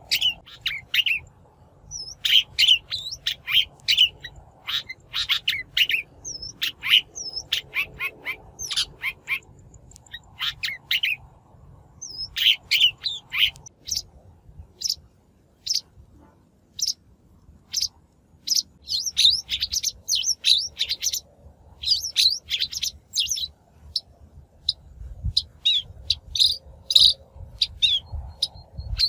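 Shrike calls used as a trapping lure: fast runs of short chirping notes, phrase after phrase with brief pauses between, and a few higher hooked whistles mixed in.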